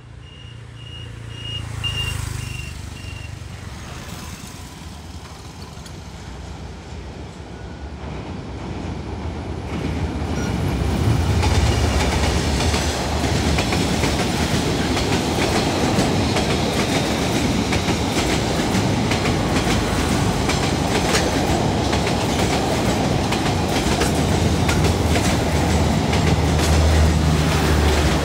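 Vietnam Railways diesel-hauled passenger train approaching and passing close by. The sound builds over the first ten seconds as the locomotive nears, with a low engine hum. Then the coaches roll past with a steady loud rumble and the clickety-clack of wheels over the rail joints.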